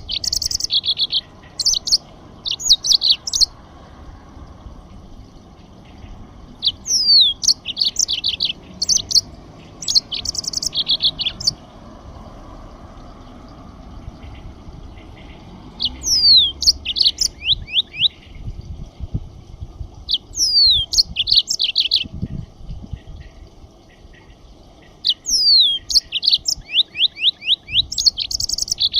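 A songbird singing in bursts of a few seconds each, made of quick high down-slurred notes and rapid trills, with short pauses between phrases.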